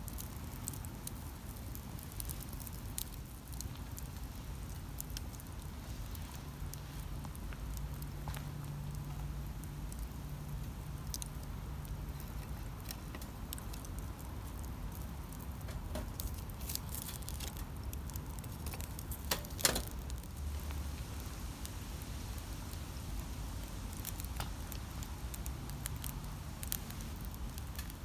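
Wood campfire crackling, with scattered sharp pops over a steady low rumble; a couple of louder pops come about twenty seconds in.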